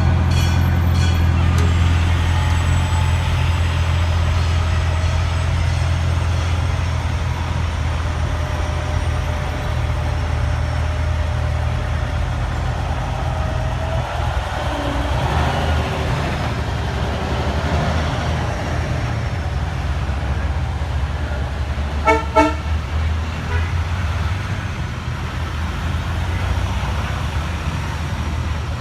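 Fire truck engines running with a steady low rumble, and two quick horn toots about 22 seconds in.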